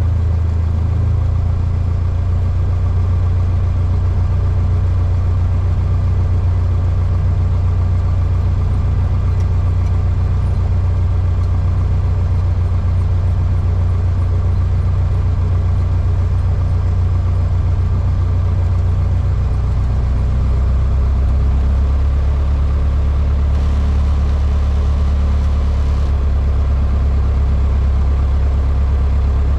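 Cessna 152's four-cylinder Lycoming engine and propeller droning steadily, heard from inside the cockpit. About two-thirds of the way through, the drone drops to a lower note.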